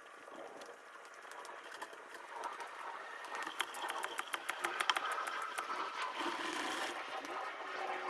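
Oil extractor sucking used engine oil out from the top of the engine, a crackling, bubbling slurp that grows louder as it goes.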